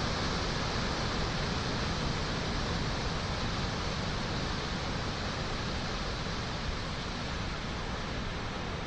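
Steady rushing noise of a waterfall, easing off slightly in level.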